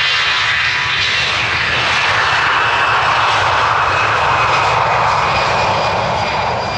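Airliner's engines passing close, a loud rushing roar with a few steady whining tones, its pitch sliding down as it goes by.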